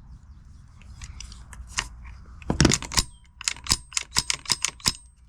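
Cartridges being loaded into a rifle magazine by hand: a quick run of about a dozen short, sharp metallic clicks, a few a second, starting halfway through.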